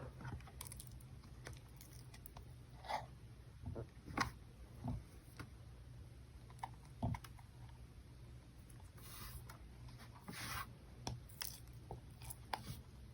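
Slime being handled: faint, scattered squishing, clicking and small pops as it is pressed and stretched, with a few louder pops.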